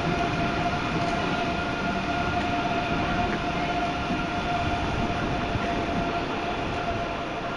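ICE 3 high-speed train running past along the platform: a steady rush of wheels on rail with a steady high whine running through it. The sound eases slightly as the end car goes by near the end.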